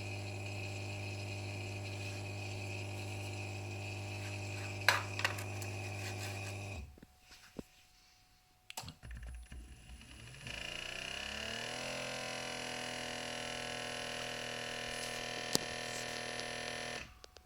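Bosch dishwasher drain pump humming steadily, then stopping. After a pause the wash (circulation) pump motor comes on with a whine that rises as it spins up, runs steadily noisy for about five seconds and cuts out abruptly; the noise is taken for a defective wash pump motor behind the E24 error.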